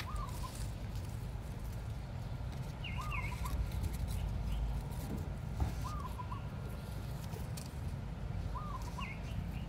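A bird calling repeatedly: a short rising-and-falling call about every three seconds, with a higher chirp twice, over a steady low rumble.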